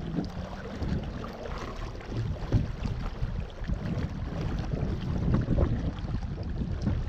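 Wind buffeting the microphone and water washing along the hull of a small sailing dinghy under way, with a few short knocks.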